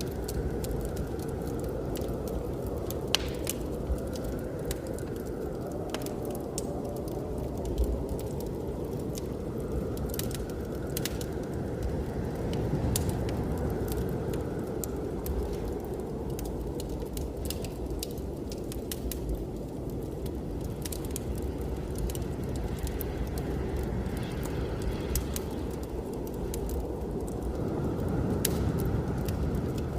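Wood fire crackling with scattered sharp pops over a steady low blizzard wind that swells and eases in gusts.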